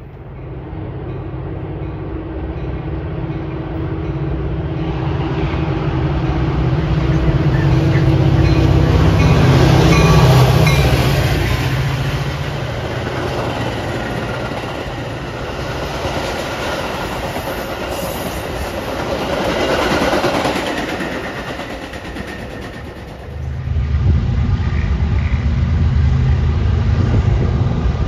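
Metra commuter train of bilevel gallery cars passing: the diesel locomotive's engine drone builds to a peak about ten seconds in, then the cars' wheels run on over the rails with some clacking. Near the end, after a sudden change, a freight train's diesel locomotives are heard approaching.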